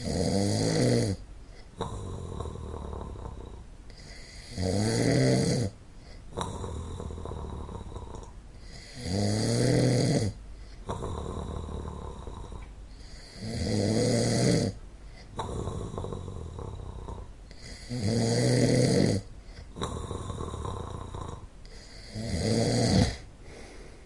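A person snoring in a slow, even rhythm: six loud, rattling snores about four and a half seconds apart, each lasting about a second, with a quieter breath between them.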